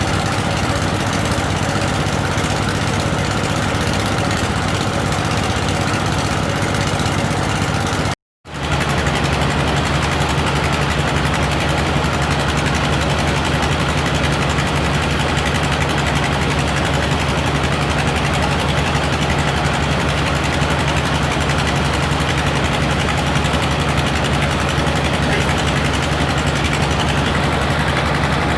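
Motor of a homemade well-drilling rig running steadily, a continuous low machine drone that cuts out for a moment about eight seconds in.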